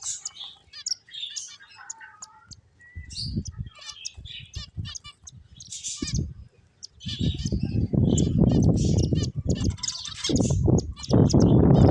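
Pet finches chirping: many short, quick high-pitched chirps and tweets. From about seven seconds in, a loud low rustling noise joins them and becomes the loudest sound.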